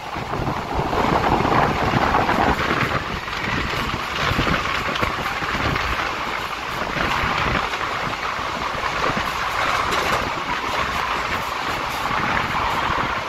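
Passenger train running at speed through a rock tunnel, heard from an open coach doorway: a steady, echoing rush of wheel and rail noise. It swells briefly as the coach enters the tunnel, then holds steady.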